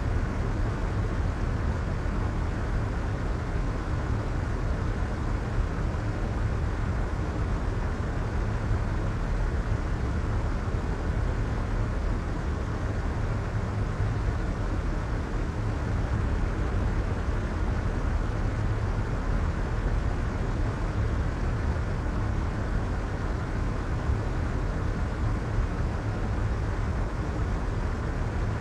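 Soft white noise: a steady, even rushing hiss with no pitch or rhythm, heaviest in the low end and with the high end rolled off, holding one constant level.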